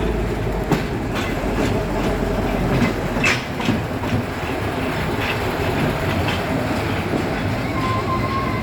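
Train running along the track, the carriage rumbling steadily with irregular clicks and knocks from the wheels over the rail.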